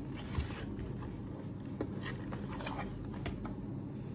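Faint rustling with a few light clicks and taps, the sound of small objects and packaging being handled, over a low steady room hum.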